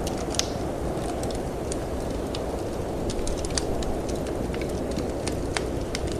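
Wood fire crackling in a fireplace, with scattered sharp pops over a steady low rush of wind.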